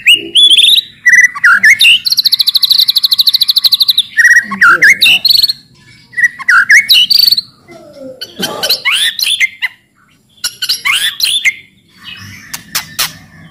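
White-rumped shama singing loud, varied whistled phrases with quick sweeping notes. About two seconds in comes a fast, harsh rattling trill lasting about two seconds, the shama's 'cetrekan', and a few sharp clicks follow near the end.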